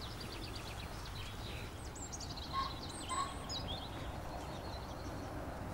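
Songbirds chirping outdoors: a quick run of high chirps at the start, then scattered calls through the middle, with two short lower notes about two and a half and three seconds in standing out as the loudest. A steady low rumble of background noise lies underneath.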